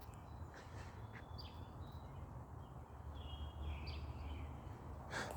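Faint birds chirping: a scattered series of short high calls over a steady low rumble.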